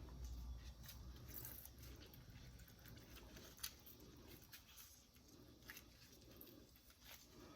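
Near silence, with a few faint scattered clicks and small squishy handling sounds of food being worked by hand.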